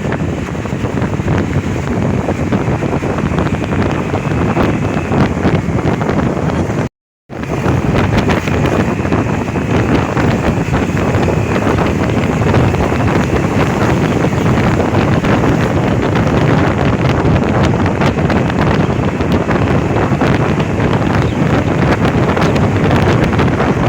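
Wind buffeting the microphone over a steady low rumble of vehicle and road noise; the sound cuts out completely for a moment about seven seconds in.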